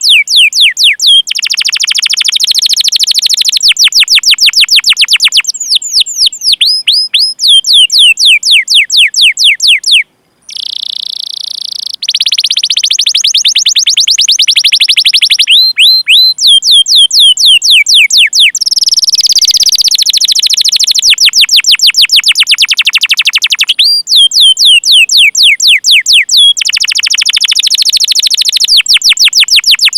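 Domestic canary song: long rolled trills of rapid, repeated falling 'cuit cuit' whistles, in phrases of a few seconds each with brief gaps between, loud and high-pitched.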